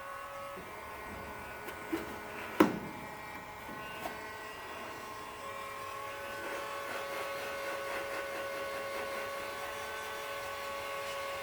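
A small electric motor runs with a steady whine that drops out early and comes back about halfway through. A couple of sharp knocks come around two seconds in.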